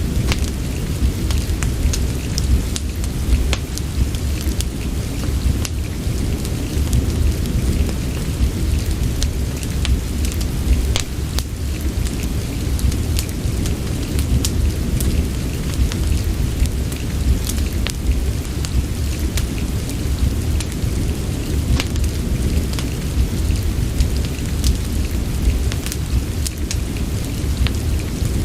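Steady rain and fireplace ambience: constant rain hiss over a deep low rumble, with scattered sharp ticks and crackles throughout.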